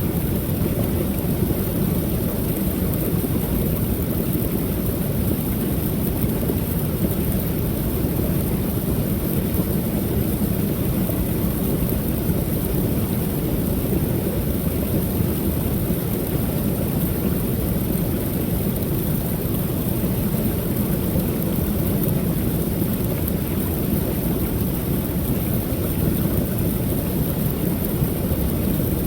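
Creek waterfall: a steady, deep rush of falling water with a light high hiss above it.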